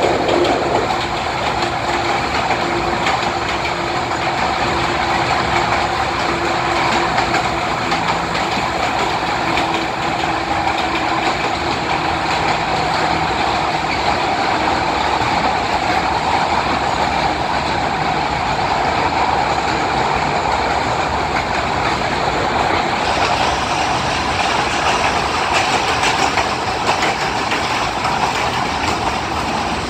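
Kurobe Gorge Railway trolley train running through a tunnel, heard from inside an open-sided passenger car: a loud, steady rumble of wheels on rail. The sound turns brighter and hissier about two-thirds of the way through.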